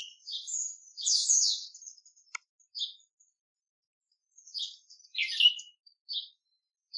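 Small songbirds chirping and calling: high-pitched short notes with two louder, busier warbling phrases about a second in and around five seconds in, then short notes repeated at an even pace near the end. A single sharp click a little over two seconds in.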